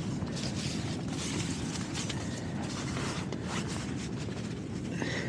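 Strong wind rumbling steadily on the microphone, with irregular rustling over it.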